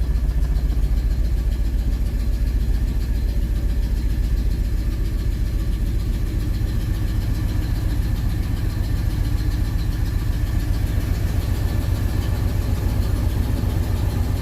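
1968 Oldsmobile 442's V8 engine idling steadily with an even low rumble.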